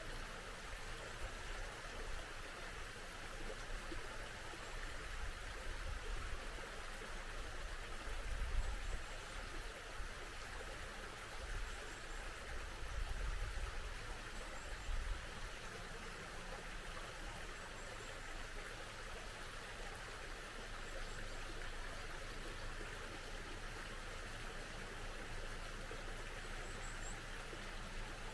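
Small mountain stream flowing steadily, with faint, high, short bird chirps every few seconds. Brief low rumbles come about a third of the way through and again around the middle.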